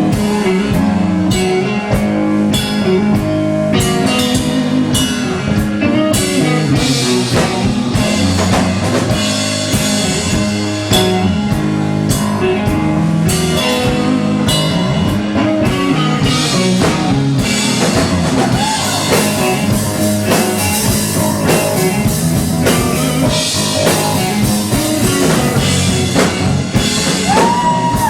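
Rock band playing live: electric guitar, bass and drum kit in an instrumental passage with a steady beat, the opening of a song.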